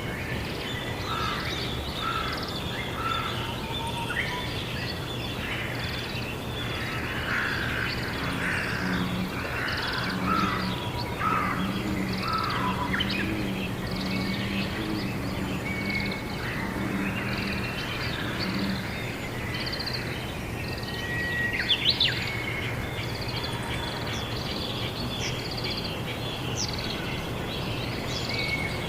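Crows cawing in a series of repeated harsh calls through the first half, with smaller birds chirping and a brief sharp chirp a little past the middle, over a steady low background hum.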